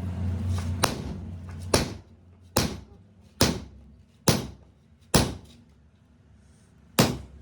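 Hammer blows on metal in an even rhythm of about one strike a second, each with a short ring, seven strikes with a pause before the last. A low machine hum dies away in the first two seconds.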